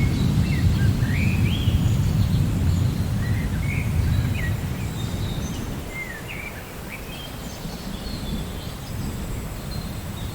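Low rolling thunder rumbling and fading away over the first six or seven seconds, over a steady hiss of rain, while songbirds chirp in short rising notes throughout.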